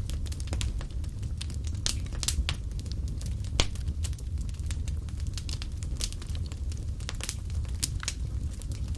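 Wood fire burning in a fireplace: irregular sharp crackles and pops over a steady low rumble of the flames, the loudest pop about three and a half seconds in.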